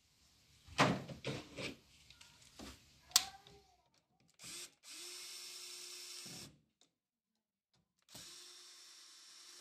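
Cordless drill-driver running in two steady runs of about two seconds each, driving screws into the PVC door's new lock mechanism. A few knocks and clicks of handling come first.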